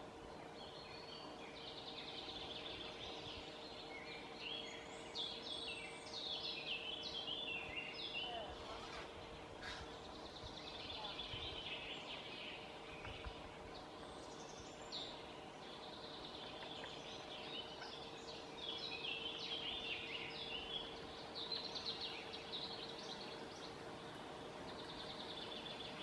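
Birds calling in repeated bouts of short, high, chattering notes, with a faint steady hum underneath.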